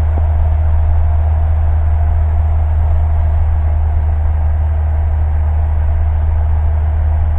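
Steady drone of a Cessna's single piston engine and propeller heard inside the cockpit, a constant low hum with no change in pitch or loudness.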